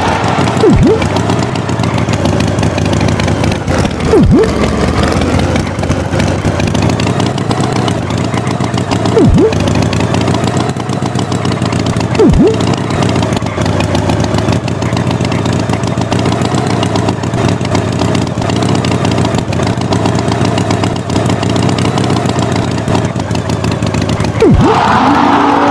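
A motor vehicle engine running steadily throughout, with five short, deep thuds: one about a second in, others around 4, 9 and 12 seconds, and the last near the end.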